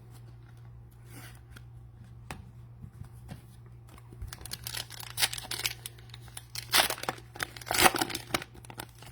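Plastic wrapper of a football-card cello pack being torn open and crinkled by hand: scattered crackles, then a dense run of tearing and crinkling through the second half.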